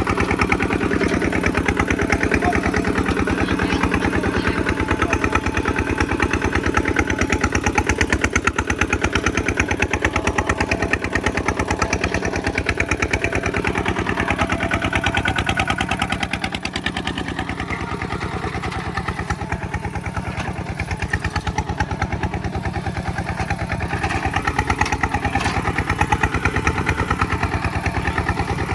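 Kubota single-cylinder diesel engine running with a steady rapid chugging, easing off a little in loudness about two-thirds of the way through and picking up again near the end.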